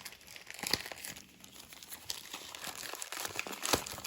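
Packaging crinkling and rustling as an item is unwrapped by hand, with a few sharp clicks.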